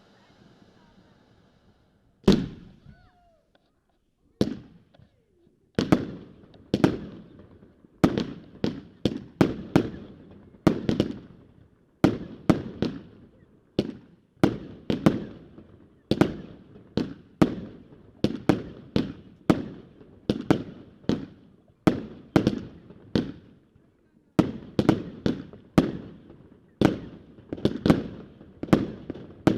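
Consumer fireworks going off: two single sharp bangs in the first few seconds, then a firework battery firing shot after shot at about one to two reports a second, each report dying away quickly.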